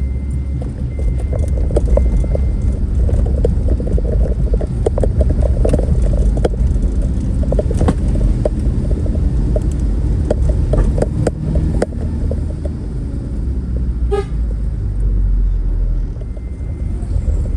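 Steady low rumble of a motor vehicle with many knocks and rattles, and one short high toot about fourteen seconds in.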